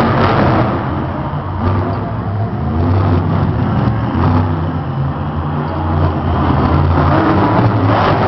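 Monster truck's supercharged V8 engine revving loudly, its pitch rising and falling as the throttle is worked.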